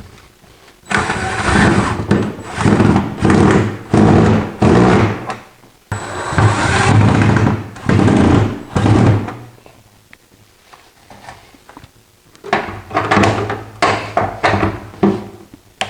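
Power drill run in repeated short bursts, each about half a second to a second long, with a quieter pause a little past the middle before more, shorter bursts.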